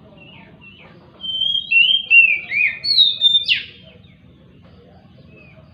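Oriental magpie-robin (kacer) singing one phrase of several clear, sliding whistled notes. The phrase starts about a second in, lasts about two and a half seconds, and ends in a sharp downward note.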